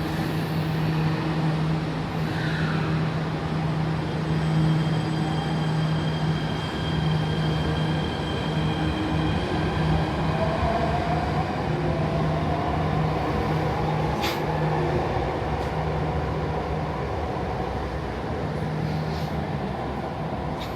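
MRT train pulling out of an elevated station platform: a steady low hum, with the electric motors' whine rising in pitch as the train gathers speed. A single sharp click sounds about two-thirds of the way through.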